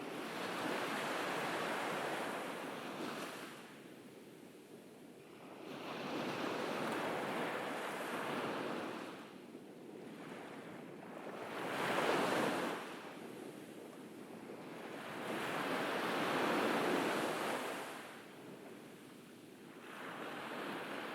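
Ocean waves breaking and washing up a beach, in slow surges every four seconds or so, the loudest about halfway through.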